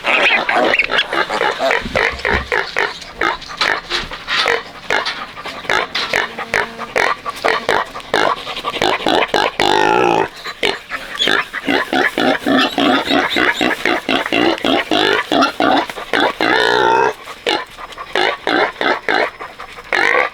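Pigs in a pen making a quick, continuous run of short grunts, with longer squeals about halfway through and again near the end.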